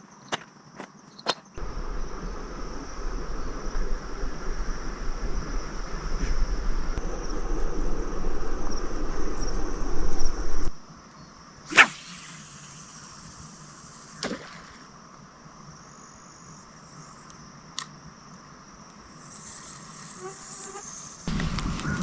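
Insects trilling in one steady high-pitched tone. Over the first half there is a louder rumbling noise that stops abruptly, and a few sharp clicks are scattered through it.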